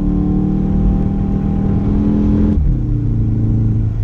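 Volkswagen Golf R engine pulling under throttle, its pitch slowly climbing, then dropping sharply about two and a half seconds in and running on steady and lower.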